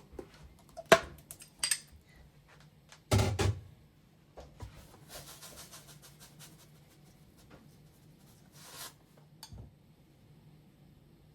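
Kitchen handling sounds: a sharp click about a second in, a heavier thud a few seconds in, then softer rustling and hissing, over a faint steady low hum.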